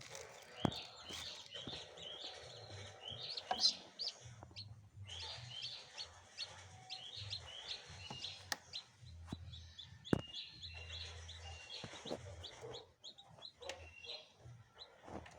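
Newly hatched chicks peeping: many short, high, falling cheeps repeated in quick runs with brief pauses, mixed with a few sharp clicks or knocks.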